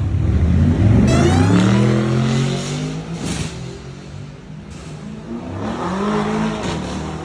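Supercar engine accelerating hard, its note climbing steeply in pitch for the first few seconds, then dropping away and fading before it rises again about six seconds in.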